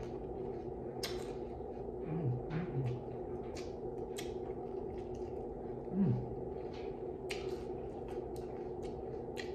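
A person chewing chicken with the mouth closed, with wet smacking clicks, and short hums of enjoyment falling in pitch, a few about two seconds in and one about six seconds in, over a steady low hum.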